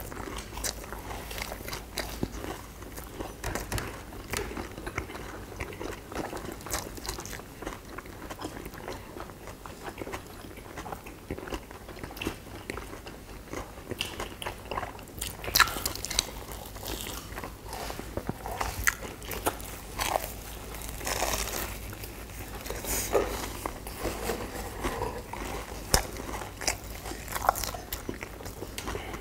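Several people biting into and chewing sugar-coated twisted fried doughnuts (kkwabaegi), a continuous run of irregular short crunches and mouth sounds.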